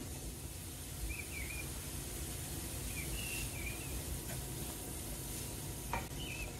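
A bird chirping in short squiggly calls, a few times about two seconds apart, over a steady low rumble, with one sharp click near the end.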